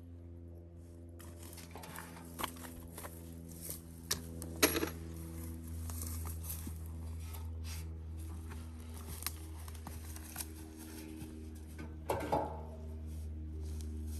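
Stihl MS461 chainsaw idling steadily on the Alaskan mill after the cut, left running so it cools down slowly. A few sharp knocks and clatter come over it, the loudest about a third of the way in and another near the end.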